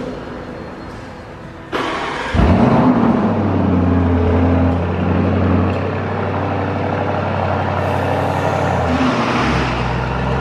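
A car engine starts with a sharp rise in revs about two seconds in, then settles into a steady idle whose note drops lower near the end.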